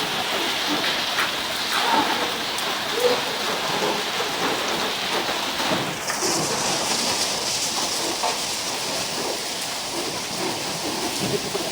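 Heavy rain falling steadily in a dense, even hiss. About halfway through the hiss turns brighter and higher.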